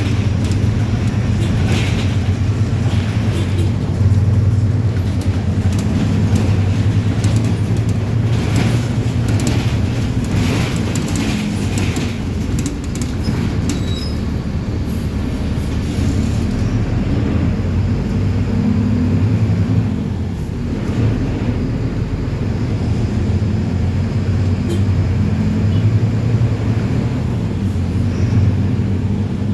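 Diesel engine of a Mercedes-Benz 1724L bus running with a steady low drone that shifts a little in pitch around the middle.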